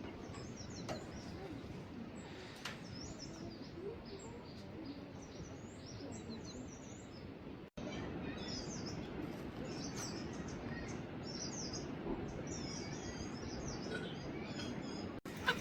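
Small birds chirping and twittering in many short, scattered calls over a steady low background noise.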